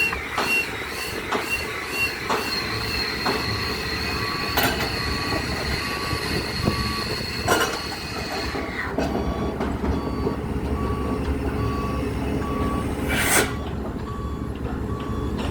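Pile-driving rig at work: a machine's warning beeper sounds in short regular beeps, about two a second, over a steady engine rumble. Sharp metallic impacts ring out about 4.5, 7.5 and 13 seconds in, with lighter knocks about once a second near the start.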